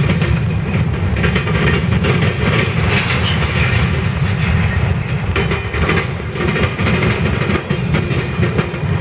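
Freight cars of a grain train rolling past at steady speed, a continuous rumble with the wheels clicking over rail joints.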